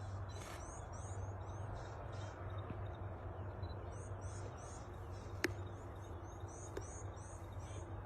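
A bird calling in three bouts of quick, high, repeated chirps, over a steady low hum, with one sharp click about five and a half seconds in.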